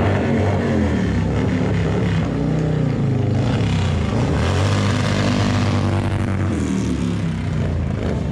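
Motorcycle engine running at low speed, its revs rising and falling a little.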